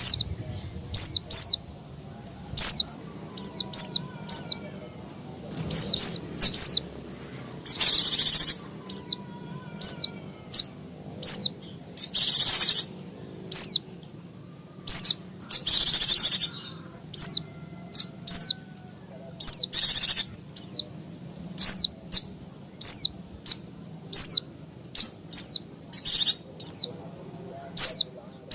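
White-eye (pleci) giving its noisy, agitated call: quick sharp high chirps that slide downward, often in pairs, broken every few seconds by a longer buzzy scolding burst.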